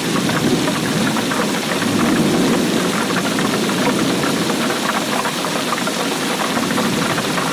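Steady rainfall: a dense patter of drops, with a low rumble underneath that swells and eases.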